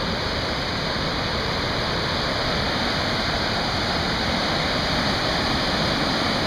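Steady rush of falling water from a creek waterfall and its rapids, with no breaks or separate sounds.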